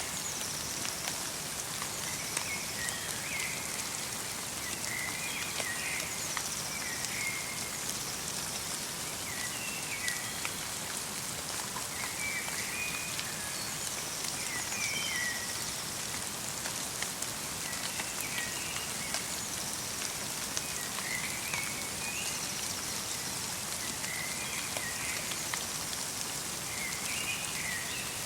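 Light rain falling steadily, with a small bird calling over it in short chirping phrases every second or two.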